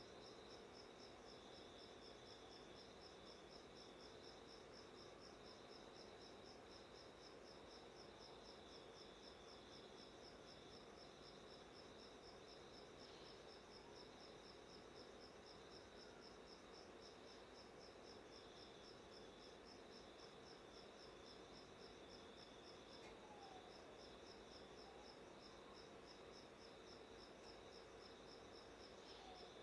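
Faint, steady, high-pitched insect trill pulsing evenly, about three pulses a second, with a few faint brief chirps in the second half.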